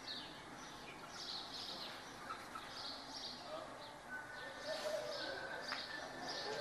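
Small birds chirping again and again, faint, with a few faint lower calls.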